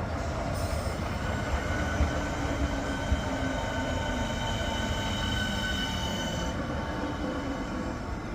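Class 465 Networker electric multiple unit running slowly into a station: a low rumble of wheels on rail, a few knocks over rail joints in the first few seconds, and a steady high whine and squeal as it slows.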